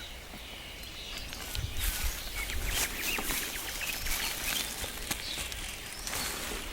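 Outdoor ambience of small birds giving scattered short chirps, with rustling and some low wind rumble on the microphone.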